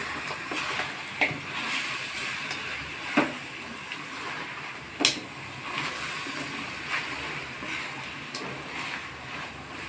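Partridge masala sizzling in an aluminium kadhai while a spatula stirs and scrapes it, with three sharp knocks against the pan, the loudest about five seconds in.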